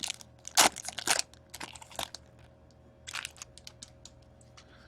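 Crinkling and crackling of a trading-card pack wrapper being handled, with the sharpest crackles about half a second and a second in, then sparser, fainter crackles that die away.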